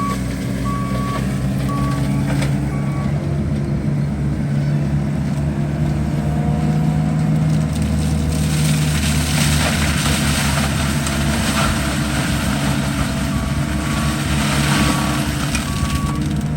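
Skid steer engine running steadily under load, its backup alarm beeping at an even pace for the first few seconds and again near the end. In the middle a louder rough scraping noise rises over the engine for several seconds.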